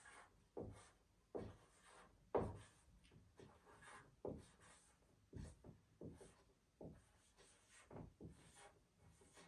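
Faint strokes of a marker writing on chart paper: short rubbing scratches, each well under a second, coming at irregular intervals with brief gaps between them.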